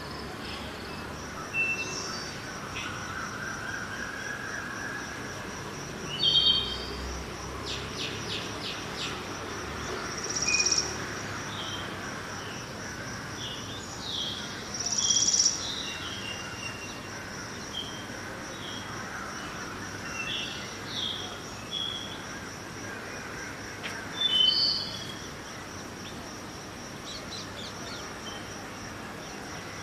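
Birds chirping in short calls scattered throughout, with a few louder bursts, over a steady high thin tone and a low even hum of distant city traffic.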